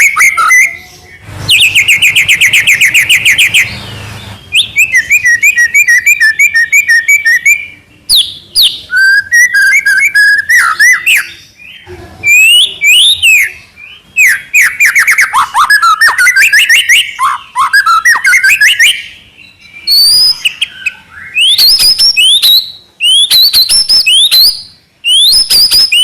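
White-rumped shama (murai batu) singing loudly in continuous, rapid-fire 'trotol' style: fast trills, chattering runs of repeated notes and rising and falling whistles, in phrases of one to three seconds with short breaks between them.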